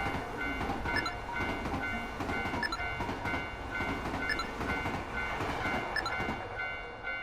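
Train passing: a steady rumble of wheels on rails with sharp clicks from the rail joints about once a second. Over it a railroad crossing bell dings in a fast, even rhythm, with light background music.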